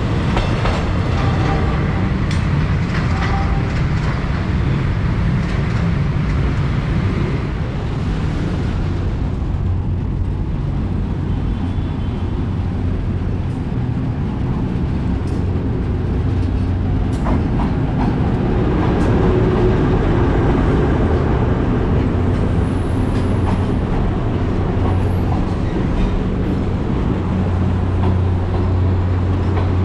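Passenger train rolling past over jointed track. Then a GE U15C diesel-electric locomotive hauling 203 series coaches approaches and passes close by, its diesel engine a steady low drone from about eighteen seconds in.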